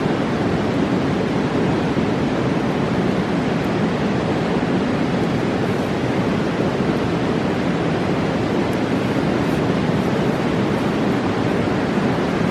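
A fast mountain river rushing in a steady, deep, even roar of water.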